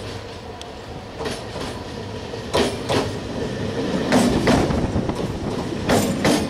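Indian Railways electric multiple unit (EMU) local train passing close by, its wheels clacking over rail joints in pairs of clacks, a pair about every second and a half, over a rolling rumble that grows louder as the cars come past.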